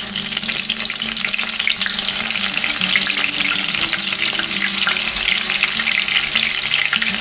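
Zucchini-and-chicken fritters frying in hot oil in a frying pan, a steady dense sizzle full of fine crackles, while they are turned over with a fork.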